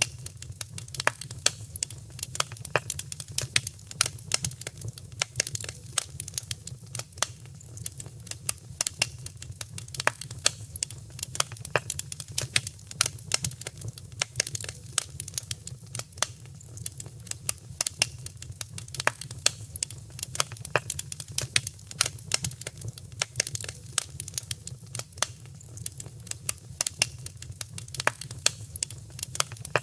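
Wood fire crackling: many irregular sharp pops and snaps over a low steady rumble of the burning fire.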